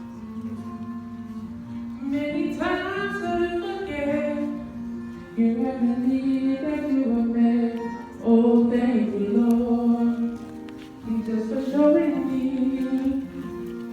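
Music: a sung duet, a woman's voice most prominent, over instrumental accompaniment.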